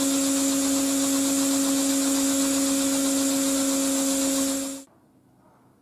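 Small motor-driven machine running at a steady speed with a constant hum and hiss, cutting off suddenly near the end.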